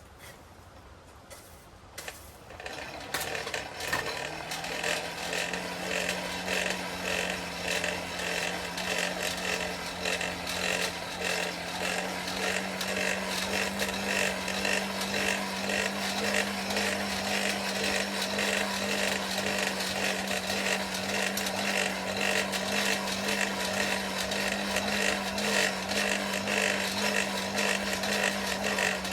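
Forge air blower switched on, its motor spinning up to a steady hum with air rushing into the fire pot. Quiet for the first few seconds, then the hum rises a little in pitch and holds steady.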